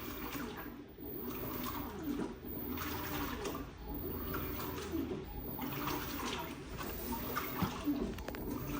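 LG WT16WV6 16 kg washing machine in its rinse cycle, water sloshing in the drum in repeated surges about once a second as the drum agitates.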